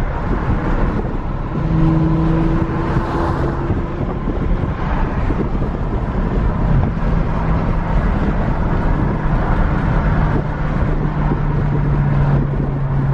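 Car engine and road rumble while driving, with a steady engine drone coming in about two seconds in and dropping slightly in pitch near the end.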